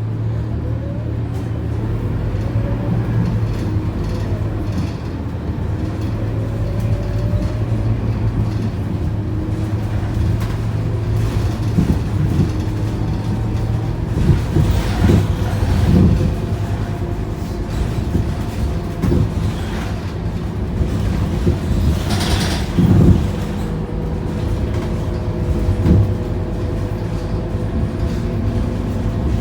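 Interior sound of a Scania K230UB city bus under way: its five-cylinder diesel and drivetrain running with a steady low hum, and a whine rising in pitch as the bus gathers speed in the first several seconds. From the middle on, knocks and thumps from the body and suspension over bumps stand out, the loudest a little after the middle.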